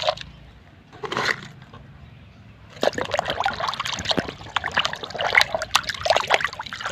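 Water splashing and sloshing as a muddy plastic toy truck is washed by hand, busy and irregular from about three seconds in.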